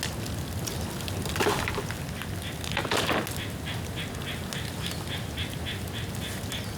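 Bonfire of wet bamboo burning, a steady fire noise with crackles and two louder bursts, about a second and a half and three seconds in. From about two seconds in, a rapid run of short high chirps, about four a second, goes on alongside.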